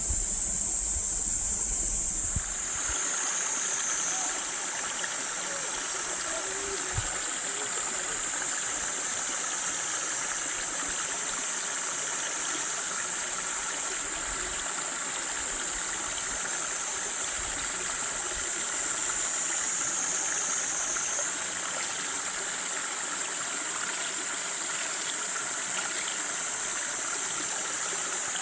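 Small waterfall rushing steadily over rocks, with a steady high-pitched insect drone above the water noise.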